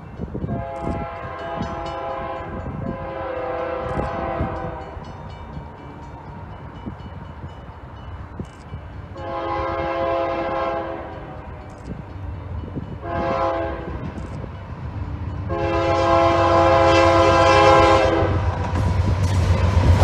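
Freight locomotive's multi-note air horn sounding five blasts: two long, a pause, then long, short, long. The leading unit is a GE AC4400CW (AC44). Under the later blasts, the low rumble of the approaching train grows.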